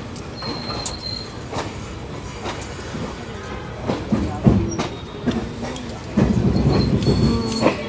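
Passenger train carriage wheels running over rail joints with a regular clickety-clack. A brief high wheel squeal comes about half a second in, and a louder, lower squealing from the wheels sets in at about six seconds.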